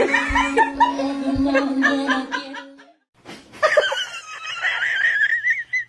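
A person laughing in short bursts over a steady background tone. After a brief break, a long high wavering whine runs to the end.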